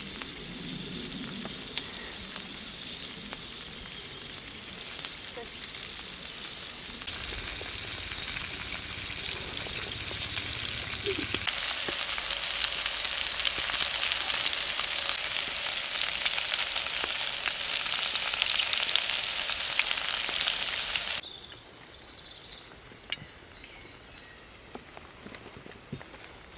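Food sizzling in a hot frying pan over a campfire: a steady frying hiss. It jumps louder twice, then drops suddenly to a quieter sizzle near the end.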